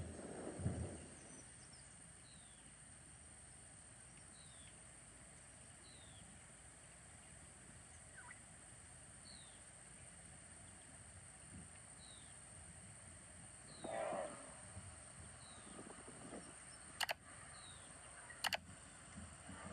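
Faint outdoor background in which a bird repeats a short, high, falling chirp about every second and a half. Two sharp clicks come near the end, a second and a half apart.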